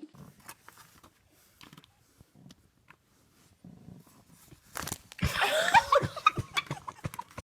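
Faint rustling and small clicks, then from about five seconds in a loud run of pet animal calls whose pitch rises and falls.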